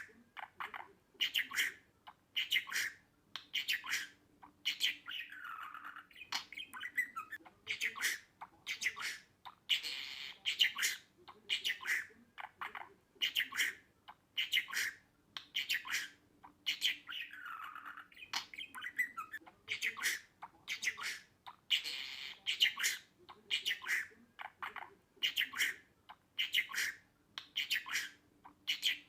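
Budgerigar chirping and squawking in a rapid, unbroken run of short calls, several a second, some sliding down in pitch.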